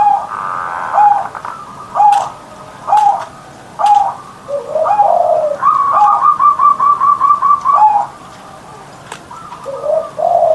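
Zebra dove (perkutut) singing: short coos repeated about once a second, a lower sliding phrase, then a fast even run of about ten notes lasting some two seconds.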